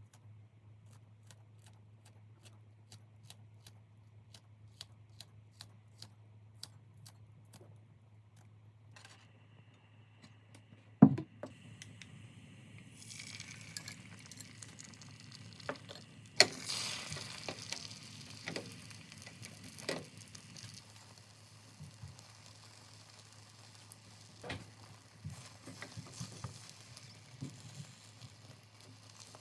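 A regular faint ticking about twice a second, then a loud knock, and from about halfway through, food sizzling in a hot pan with sharp clinks of utensils.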